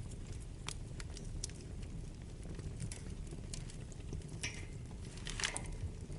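Wood fire burning in a fireplace: a steady low rumble of flames with scattered sharp crackles and pops from the burning wood, the loudest a quick cluster of pops about five and a half seconds in.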